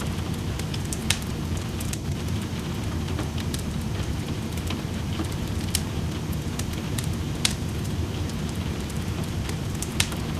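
Wood fire crackling in a fireplace, with sharp pops at irregular intervals, a few louder ones standing out, over a steady low hiss of falling rain.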